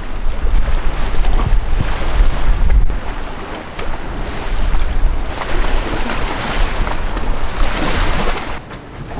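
Storm wind gusting hard. The gusts buffet the microphone with a low rumble, then swell into a louder rushing surge over the second half before easing off near the end.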